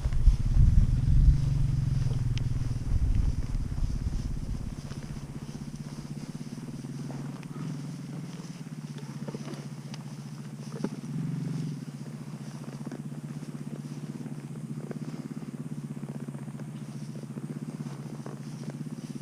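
Tractor engine idling with a steady low hum, with a heavier low rumble in the first four seconds.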